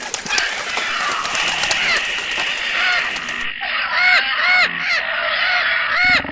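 A hissy noise, then from about halfway through a series of short honking animal calls, each rising and falling in pitch, about two a second.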